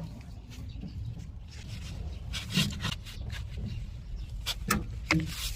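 Scattered metal clicks and scrapes of a hex key working the refrigerant service valves on an air-conditioner outdoor unit, over a low steady rumble.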